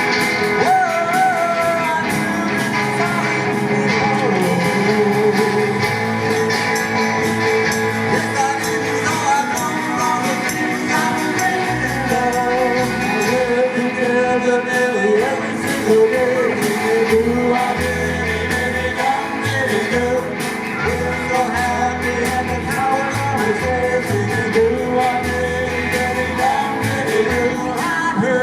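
Live rock-and-roll band playing, with singing over the instruments; a deep bass line comes in strongly about halfway through.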